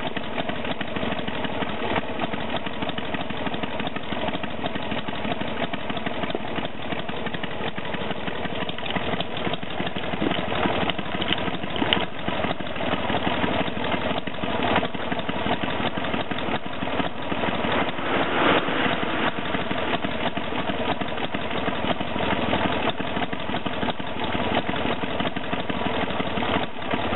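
Harley-Davidson Sportster 883 Hugger's air-cooled V-twin idling through tapered mufflers, with a few brief rises in the middle.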